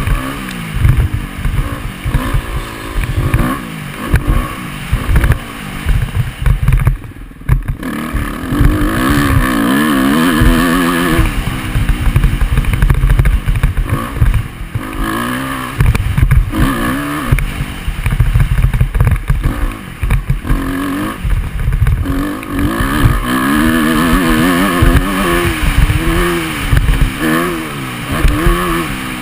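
Dirt bike engine revving up and down repeatedly while riding a motocross track, heard from an onboard GoPro camera, with heavy irregular low buffeting on the microphone.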